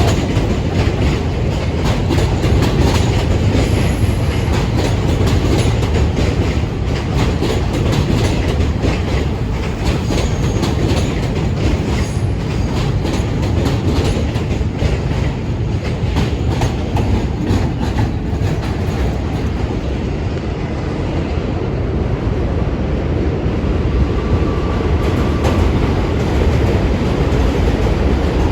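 New York City subway train running past on the elevated tracks: a steady loud rumble with rapid wheel clacks over the rail joints, the clacking thinning out in the last several seconds.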